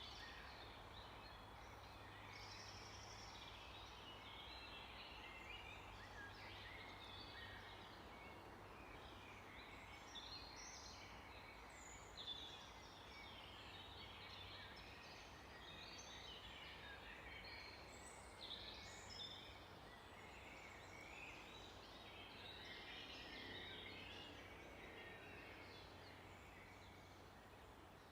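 Faint chorus of several small birds singing and chirping in overlapping short high phrases, over a steady background hiss and a low hum. A few calls stand out louder about twelve seconds in and again around eighteen to nineteen seconds in.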